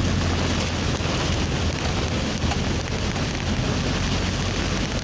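Steady heavy rain, a continuous hiss with a low rumble underneath.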